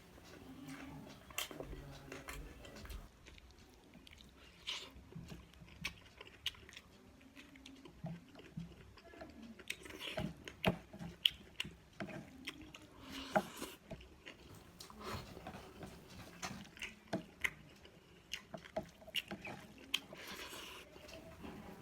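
Close-up chewing and mouth sounds of a person eating, with many small, irregular wet clicks and smacks.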